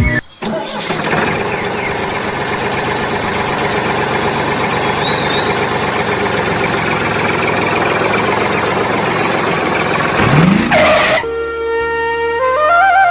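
An engine running steadily, rising in pitch briefly near the end as it revs up.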